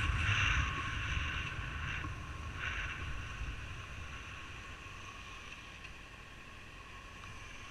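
Steady rushing noise of wind and a running motor, with a low rumble, fading gradually until it is faint near the end.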